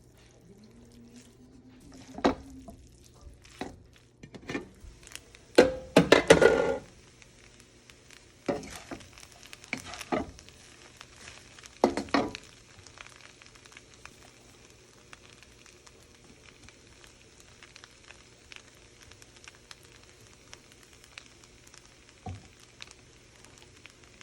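Stir-fry sizzling in a hot pan while a utensil stirs it and knocks against the pan, the clatter loudest about six seconds in. After about thirteen seconds only a steady, faint sizzle remains, with one more knock near the end.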